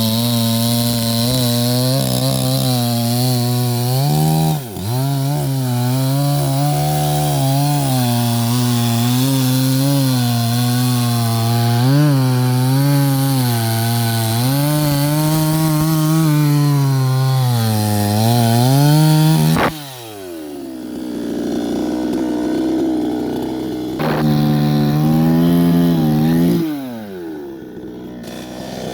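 Chainsaw running at full throttle while cutting wood, its pitch sagging and recovering under the load. About two-thirds of the way in the throttle is released and the engine drops toward idle. It is revved again for a few seconds, then falls back.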